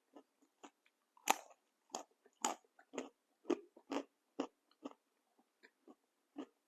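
Close-up chewing of a crunchy snack: irregular crisp crunches, about two a second, the loudest about a second in.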